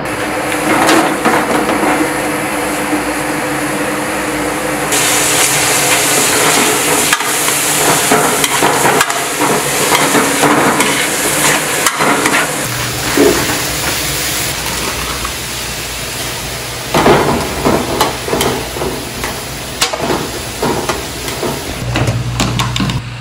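Sliced onions frying in hot oil in a wok with a steady sizzle that jumps up sharply about five seconds in. A spatula scrapes and knocks against the wok in bursts while they are stirred. Near the end comes handling of a plastic tub's lid.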